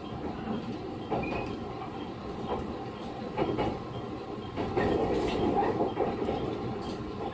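JR West 115 series (6000 subseries) electric train heard from inside the car: a steady rumble of running gear, with wheels clacking over rail joints, growing louder a little past halfway.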